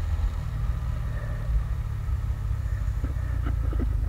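Yamaha Sniper 150's single-cylinder four-stroke engine running steadily while riding at cruising speed, with a low road rumble.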